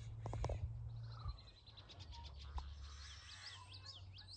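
Wild birds calling and singing: a rapid high trill about a second in, then quick up-and-down whistled notes near the end. A few soft knocks at the start.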